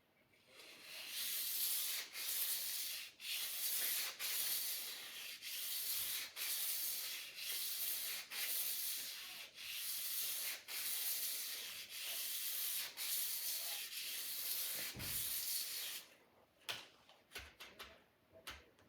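A sword blade being sharpened: a long run of steady abrasive rasping strokes, each broken by a short pause, about one or two a second. The strokes stop near the end and a few light clicks and taps follow.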